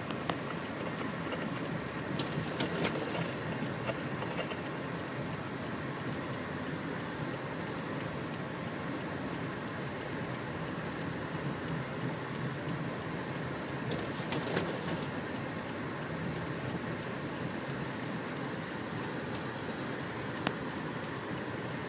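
Steady road and engine noise heard inside a car driving through snow, with a faint regular ticking and a few louder clicks.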